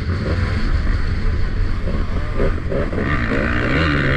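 Motocross bike engine with the throttle blipped up and down over bumps, recorded from a helmet-mounted camera with a heavy low rumble of wind on the microphone. The engine note steadies and rises again near the end.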